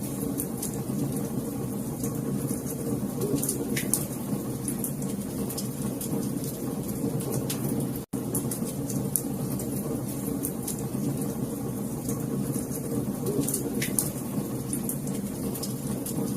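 Wood fire burning in a fireplace: a steady low rumble of flames with frequent sharp crackles and pops. The sound cuts out for a split second about eight seconds in.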